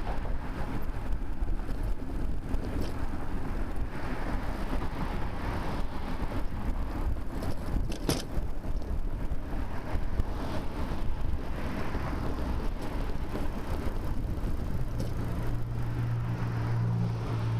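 Rumbling wind and road noise on a bicycle-mounted camera, with several swells of passing motor-vehicle noise. There is one sharp click about eight seconds in, and a steady low engine hum for the last few seconds.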